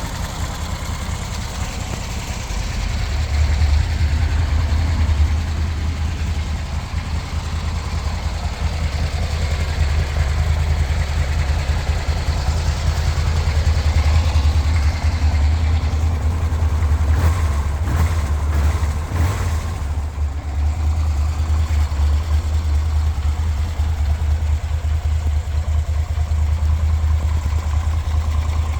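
2007 Moto Guzzi Griso's transverse V-twin idling steadily with a deep, low rumble through its original exhaust; it gets a little louder about three seconds in, and a few brief sharp clicks come through around two-thirds of the way in.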